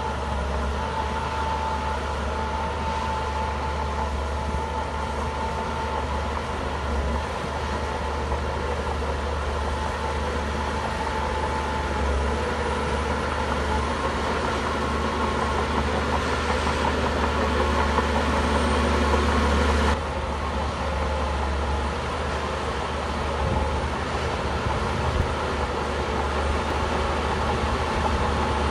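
Bulldozer's heavy diesel engine running steadily. It grows louder for several seconds, then drops suddenly about two-thirds of the way through and runs on.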